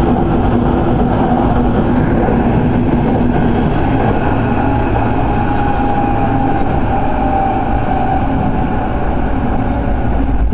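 Electric commuter train running at speed, heard from on board: a steady rumble of wheels on rails with a faint hum from the motors.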